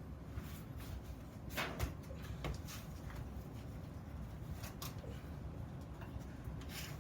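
Scattered light clicks and knocks, the loudest group about two seconds in, over a steady low workshop hum: small metal workpieces and tools being handled on a bench.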